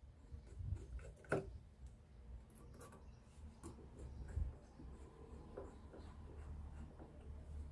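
Faint, scattered clicks and small knocks of hand work as a pulley is fitted and screwed onto an MDF disc, with one sharper click about a second and a half in.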